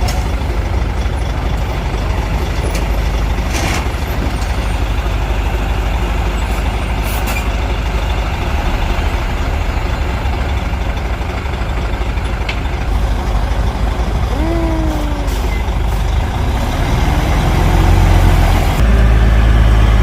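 Heavy truck engine running with a steady low rumble, growing louder toward the end. A few short falling tones sound about three-quarters of the way through.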